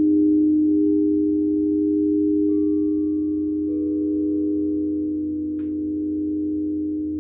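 Singing bowls ringing with a steady low hum and pure overtones; a higher tone joins about two and a half seconds in and another a second later, with a single light click near the end.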